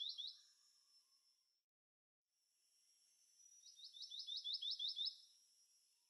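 Black-naped monarch calling faintly: two short high notes, then, about four seconds in, a quick run of about nine identical sharp notes, the monarch's rapid 'wi-wi-wi-wi' song.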